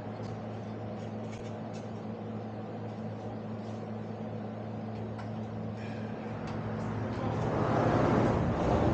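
A steady low mechanical hum with a few light metallic clinks, and a louder rushing noise building over the last two seconds.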